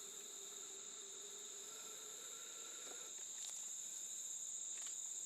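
Steady, high-pitched insect chorus of crickets trilling without a break. A faint steady hum fades out about three seconds in.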